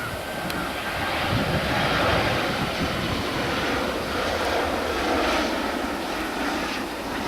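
A jet airliner's engines running: a steady rushing noise with no break, swelling slightly a couple of seconds in.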